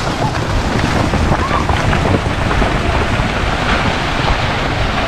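Loud, steady rushing and rumbling noise of wind buffeting the microphone outdoors.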